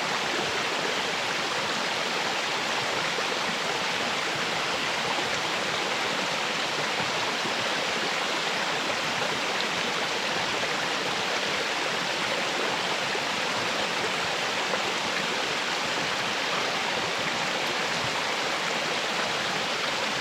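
Small waterfall pouring steadily into its plunge pool: an even, unbroken rush of falling water.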